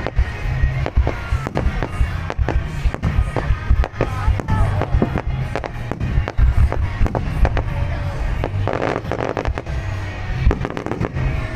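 Fireworks bursting in quick succession, sharp bangs and crackle over a deep rumble, with music playing along.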